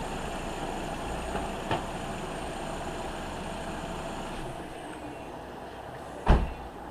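Nissan Rogue's engine idling, then switched off about two-thirds of the way through, the running noise and a faint high whine dying away. A small click comes early, and a single sharp, loud thump comes near the end.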